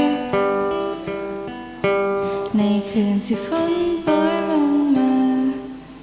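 Guitar instrumental: a picked melody with bent notes over plucked chords, dying down near the end.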